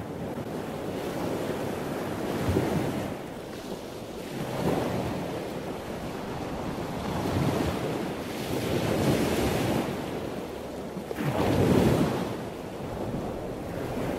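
Ocean surf: waves washing in and drawing back in slow swells every two to three seconds, with the biggest swell about twelve seconds in.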